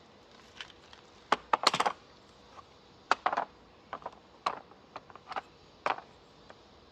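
Hand tools and metal parts clicking and clinking as they are handled in repair work: about a dozen irregular sharp clicks and short clatters, the loudest a quick cluster a little before two seconds in.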